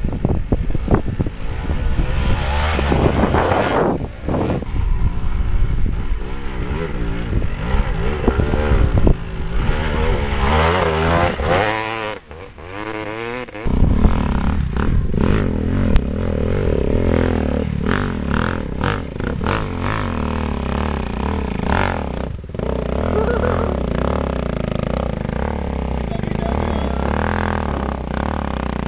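Dirt bike engines revving up and down, the pitch swinging repeatedly, then running at a steadier note after a brief drop about twelve seconds in.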